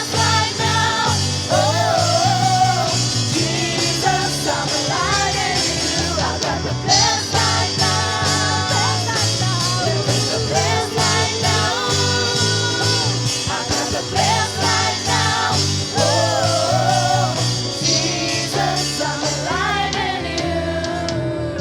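Live worship band music: a singer's voice over guitar and bass.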